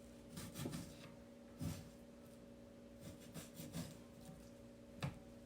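Sharp knife slicing through raw beef, a few short scraping strokes, with one sharp tap about five seconds in, over a faint steady hum.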